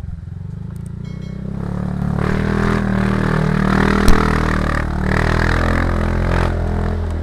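Motorcycle engine running while riding, getting louder from about two seconds in. A single sharp knock sounds about four seconds in.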